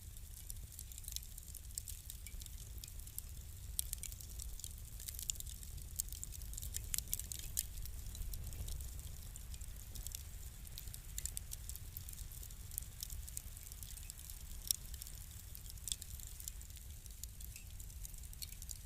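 A fire crackling: a constant scatter of small sharp pops and snaps over a low steady rumble, with one louder pop past the middle.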